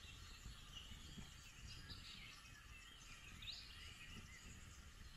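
Faint birdsong: short chirps and whistled calls here and there over a quiet low background rumble.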